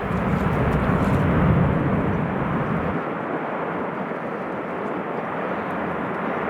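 Jet airliner engine noise with strong gusty wind buffeting the microphone. The low wind rumble is heaviest in the first three seconds, then eases.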